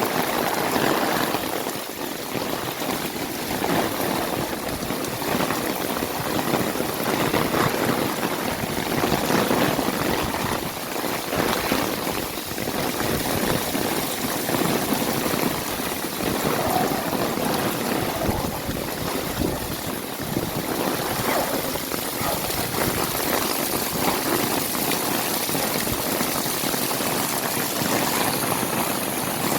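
Heavy rain pouring down, a steady dense rush of water with no breaks.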